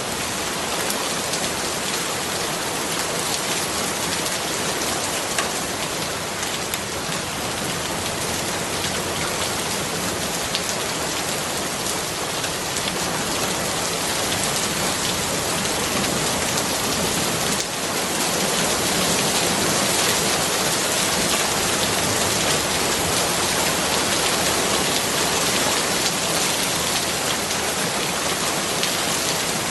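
Steady heavy rain, a dense even hiss of drops with faint individual patters, growing a little louder about two-thirds of the way through.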